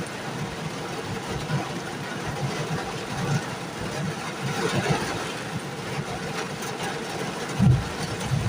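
Steady rain falling on a truck, heard from inside the cab, with a low rumble throughout and a couple of dull thumps near the end.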